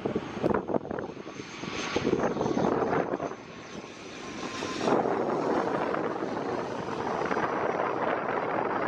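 ATR 72-600 twin turboprop arriving, its engines and propellers running with a steady high whine over a rushing drone that gets louder about five seconds in.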